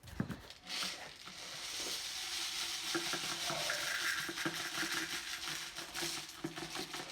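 Washing machine filling with water: a steady hiss that builds over the first two seconds, with a faint low hum and a few small knocks.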